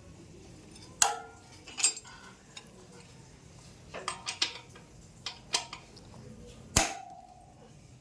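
A steel spanner clinking and knocking against the hub motor's axle nuts as they are loosened: a string of separate metal clinks, the loudest near the end.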